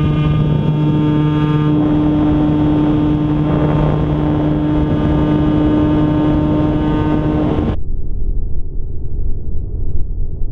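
A loud, steady engine drone with a strong hum, rising slightly in pitch at the start. About three quarters of the way through it cuts off suddenly, leaving a low rumble.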